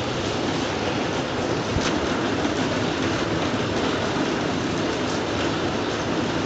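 Steady rain falling: a dense, even hiss with a few faint sharper drops standing out.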